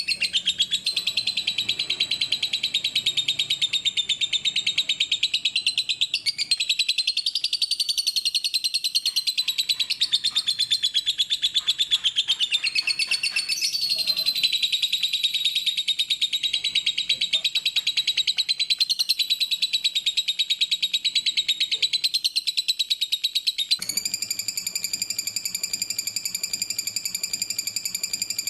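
Lovebird singing a long, unbroken, rapid high-pitched chattering trill. The pitch shifts several times, and near the end it settles into a steadier ringing tone.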